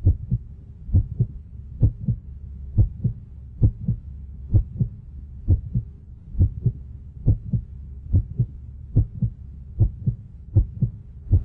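Heartbeat sound effect of a 1979 Williams Gorgar pinball machine: a steady double thud, lub-dub, about once every 0.9 seconds over a low hum.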